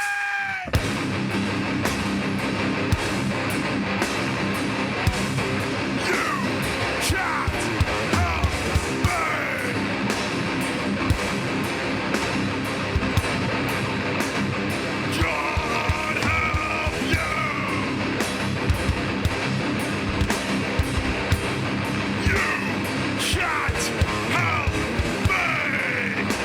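Hardcore band playing live: loud distorted electric guitars and drums, with sliding, yell-like pitch sweeps now and then. The music breaks off for a moment just after the start, then comes crashing back in.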